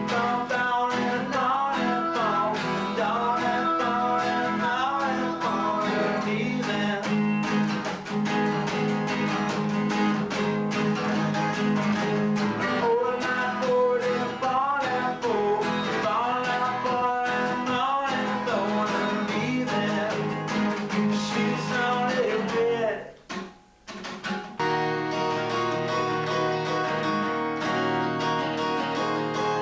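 Acoustic guitar strummed with a man singing over it, picked up by a basic camcorder microphone. About 23 seconds in the music stops for a second or so, then the guitar starts again without the voice.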